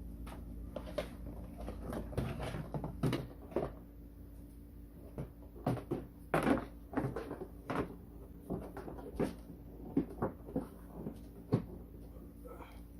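Scattered clicks, knocks and rattles of hard plastic ride-on toy car parts being handled during assembly, over a faint steady hum.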